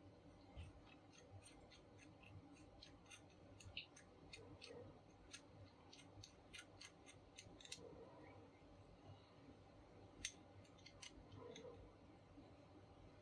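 Faint, irregular light clicks and ticks, as of small parts or hand tools being handled during the laminator repair.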